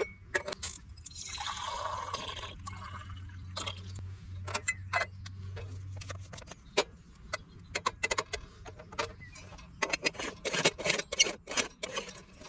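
Handling sounds at a camp: a run of light clinks, taps and knocks, thicker near the end, with a short rush of noise like pouring or splashing about a second in.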